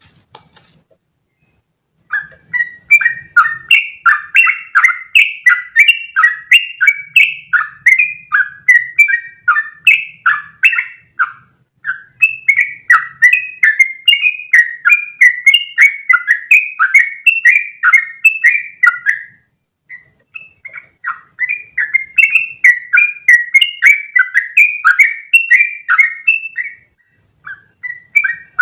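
Yellow-vented bulbul (trucukan) singing a long, fast run of bubbling, chattering notes, about three a second. The song starts about two seconds in and breaks off briefly twice before carrying on.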